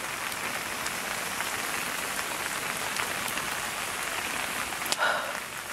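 Steady rain falling, an even hiss with a few sharper ticks of drops.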